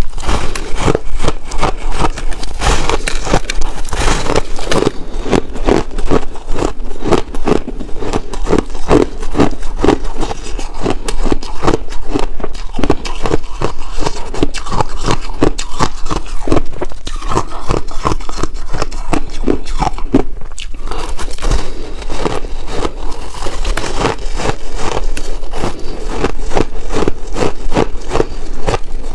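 Chunks of purple ice being bitten and chewed, a dense run of crunches and crackles with a brief pause about twenty seconds in.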